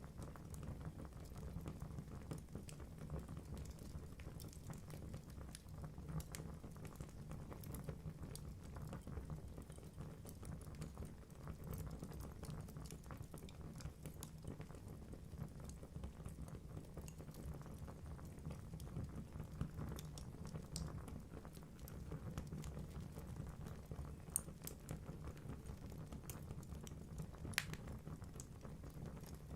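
Wood fire burning in a fireplace: a low steady rumble of flames with constant fine crackling and a few sharper pops near the end.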